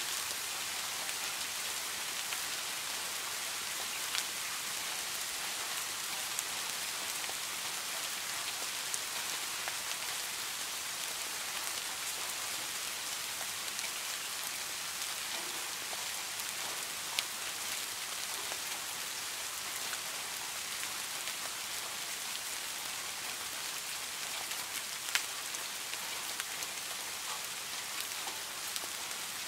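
Steady rain falling on the water of a small garden pond: a dense, even hiss of drops on the surface, with a few louder single drop splashes standing out now and then.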